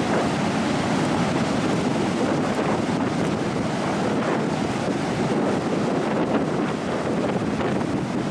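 Loud wind buffeting the microphone, a steady rushing roar, with ocean surf mixed in underneath.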